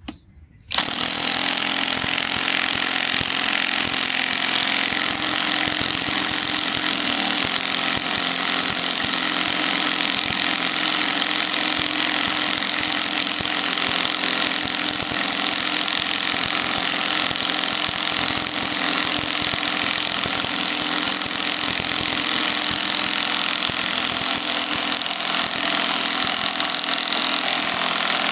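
Hercules second-generation compact cordless impact wrench hammering continuously as it drives a large fastener, starting abruptly about a second in with rapid, steady impact blows.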